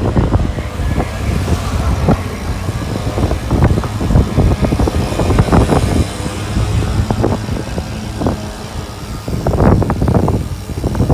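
Street noise of passing motor traffic, with a heavy, uneven low rumble of wind on the microphone.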